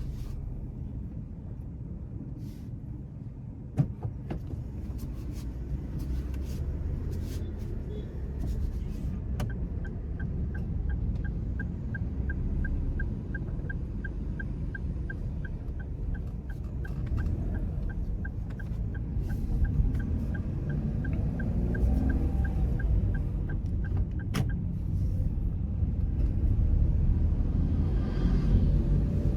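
Car interior rumble of engine and road noise while driving, with a sharp click about four seconds in. In the middle a turn-signal indicator ticks evenly, two to three ticks a second, for about fifteen seconds, then stops with a click. The rumble grows louder near the end.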